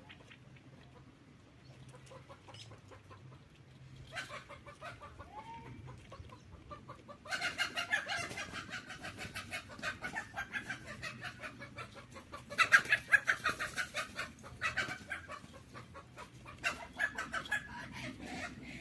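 Birds calling in rapid, repeated notes. The calls are faint at first, swell into a dense burst about seven seconds in, and are loudest around thirteen seconds.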